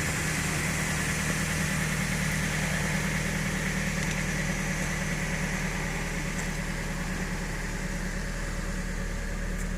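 Toyota RAV4's four-cylinder engine idling steadily, heard from inside the cabin, with a steady hiss of air from the ventilation blower.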